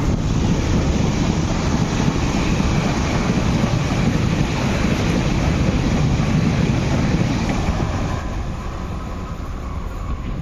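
MTR East Rail Line R-train, a nine-car electric multiple unit, passing close at speed: a steady rumble of wheels on rail that begins to fade about eight seconds in as the last cars go by.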